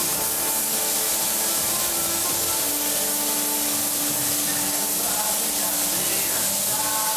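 Paint spray gun hissing steadily, with music playing faintly underneath.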